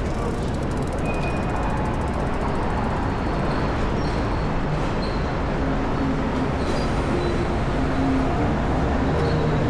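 Loud, steady downtown street noise: a dense rumble of passing vehicles, with a low pitched hum joining in about halfway through.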